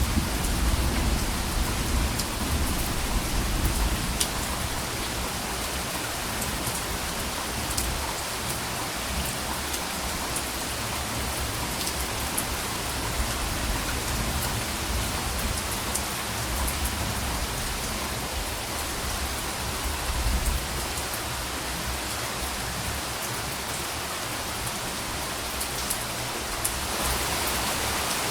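Steady rain falling, with scattered drop ticks. A low rumble of distant thunder dies away over the first few seconds and comes back briefly about two-thirds of the way through.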